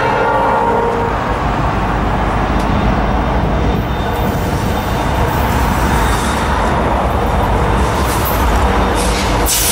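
A train passing close by: a loud, steady rumble of locomotives and wheels on the rails. The last of a horn blast fades out in the first half second, and a few sharp clicks from the wheels come near the end.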